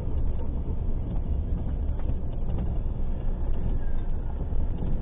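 Steady low rumble of a moving car: road and engine noise, with a few faint knocks.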